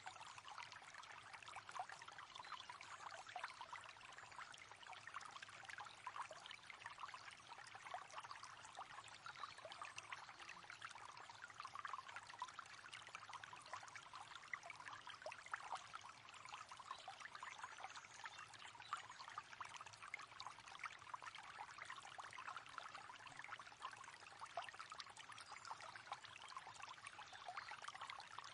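A river flowing: a faint, steady babble of running water with many small splashes.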